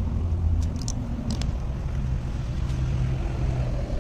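A motor vehicle engine running nearby, giving a steady low rumble whose pitch shifts slightly, with a few light clicks.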